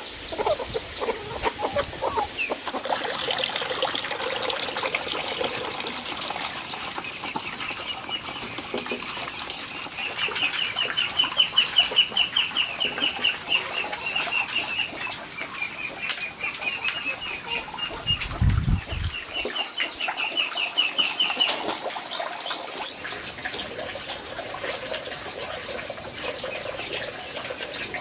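Outdoor ambience: runs of rapid, high chirping trills, with one brief low thump about two-thirds of the way in, over a steady wash of noise that may be flowing water.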